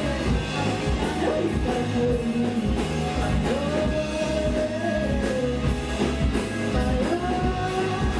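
A rock band playing: a sung vocal line with held notes over electric guitar, bass and a steady drum-kit beat.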